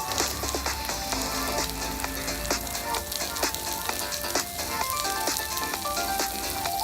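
Asparagus and baby corn sizzling as they sauté in a frying pan, a steady hiss, with background music playing over it.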